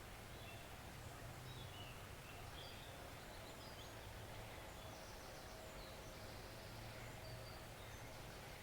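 Faint, steady rush of a forest stream, with scattered short, high bird chirps in the middle.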